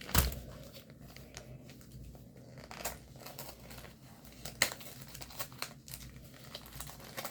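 Packaging being handled and opened: irregular crinkling and tearing with scattered sharp clicks, the loudest right at the start and another a little past halfway.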